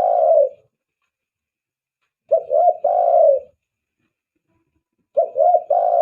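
Spotted dove (tekukur) cooing. A phrase of two short notes and one longer, drawn-out coo repeats about every three seconds: the tail of one phrase at the start, a full phrase a little after two seconds in, and another beginning near the end.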